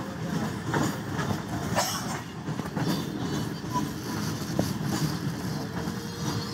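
Passenger train running along the track: a steady rumble with scattered clicks from the wheels and rails, and a faint tone near the end.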